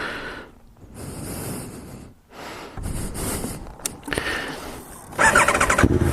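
Wind noise with short drop-outs. Near the end a motorcycle engine starts, with a quick, even pulsing before it settles into a steady low running note.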